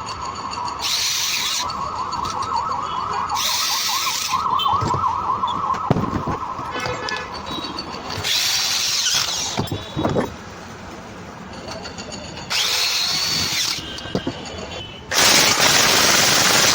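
Power tool run in five short bursts of about a second each, the last one longer, with a wavering high squeal through the first six seconds.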